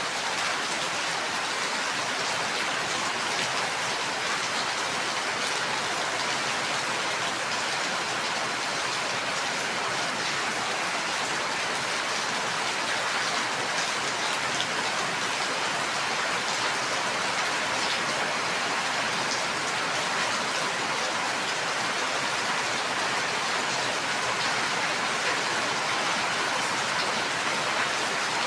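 Steady, even rainfall with many fine drop ticks on surfaces and no thunder.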